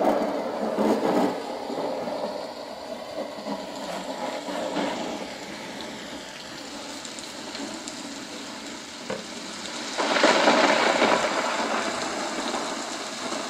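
Thunder nature-sound track played from a HoMedics SoundSpa portable sound machine's small speaker: a steady hiss with rumbles swelling up, the loudest about ten seconds in.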